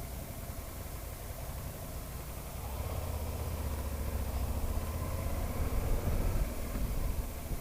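Aprilia motorcycle engine running while riding, with wind noise over the microphone; the engine gets louder about three seconds in and eases off near the end.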